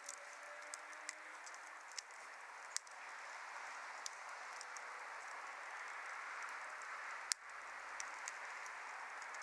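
Wood fire burning in a fire stand: a steady hiss of flames with scattered small crackles, and two sharper pops, one about three seconds in and another about seven seconds in.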